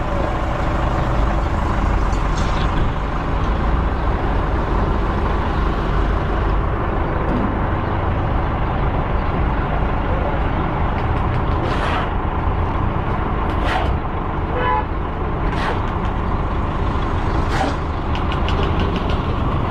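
An engine or motor running steadily, with a few sharp clicks in the second half.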